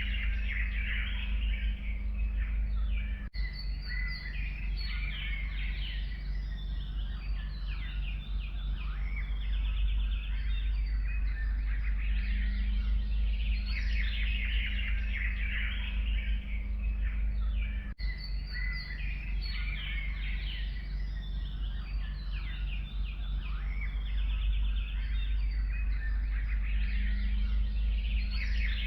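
Several forest songbirds chirping and singing at once, with overlapping rapid trills and tweets, over a steady low rumble. The birdsong briefly cuts out twice.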